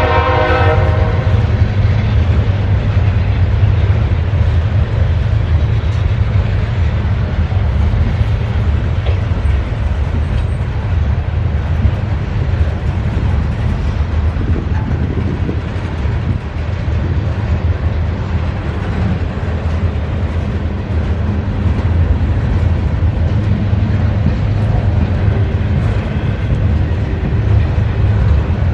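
CSX freight train rolling past with a steady, heavy rumble; its horn chord fades out about a second in.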